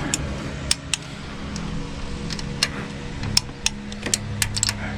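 Hand torque wrench ratcheting on cylinder-head bolts, giving about a dozen sharp, irregular clicks over a steady low hum.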